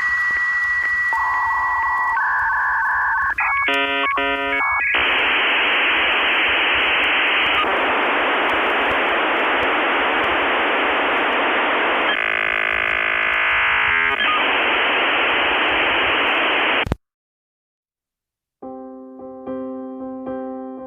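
Dial-up modem handshake. A steady high answer tone and warbling tones give way to rapid chirping tones, then a long hiss of line training that cuts off suddenly. After a short silence, piano music begins near the end.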